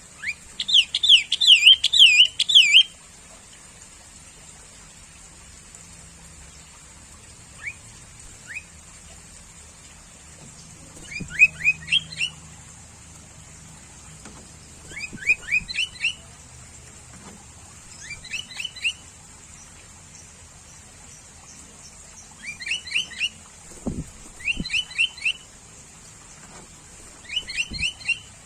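Sooty-headed bulbul calling: short phrases of three or four quick rising whistled notes, repeated in bouts every few seconds. The first phrase is the loudest and longest.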